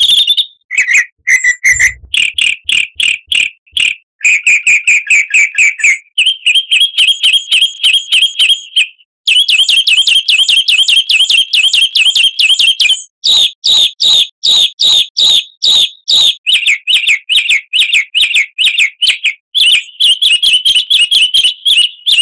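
Songbird song played as a lure to set caged birds singing: loud, rapid chirps and trills in phrases of a few seconds each, the pitch shifting from phrase to phrase. It cuts off abruptly at the end.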